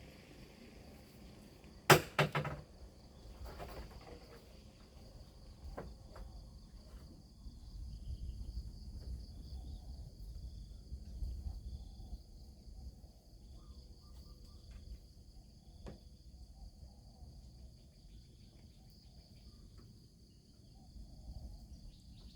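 Insects trilling steadily at a high pitch, with a loud sharp knock and short clatter about two seconds in, then a few fainter knocks and some low rustling.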